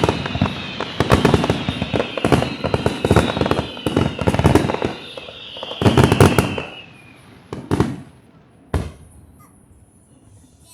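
Fireworks barrage: rapid, overlapping bangs and crackle with several whistles falling in pitch, for about six seconds, then thinning to two single bangs.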